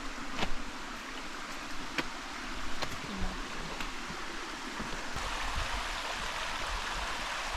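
Small rocky creek flowing over stones, a steady rush of water that grows louder about five seconds in. A few faint knocks sound over it.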